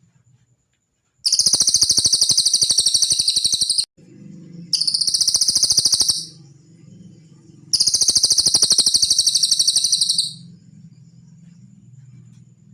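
Cililin bird singing three long, rapid, high-pitched trills, each lasting a few seconds, with short pauses between, over a faint low hum.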